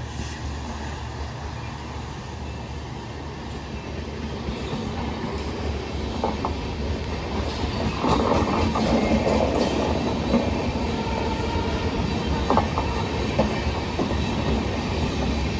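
A train running past on the line: a low steady rumble that grows louder and is fullest from about eight seconds in, with a few sharp wheel clicks over the rail joints.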